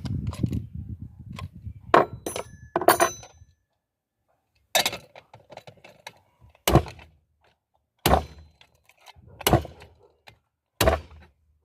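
Handling and metal knocks during work on a pan's safety valve. A low rumble with small clicks comes first, then five sharp knocks about a second and a half apart, each ringing briefly.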